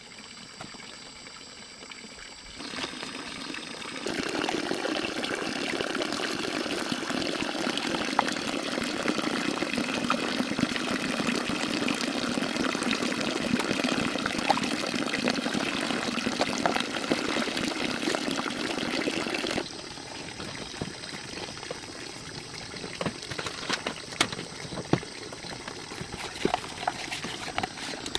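Water pouring steadily, starting a few seconds in and growing fuller, then cutting off sharply about two-thirds of the way through, leaving a fainter trickle with scattered small clicks.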